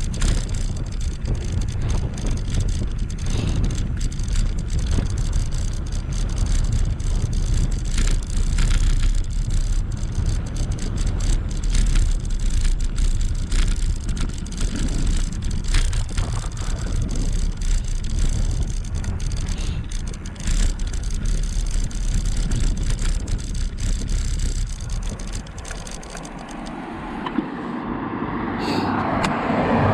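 Wind rumbling on a GoPro's microphone and tyre noise while riding an e-bike. Near the end the rumble eases and a rising rushing noise builds.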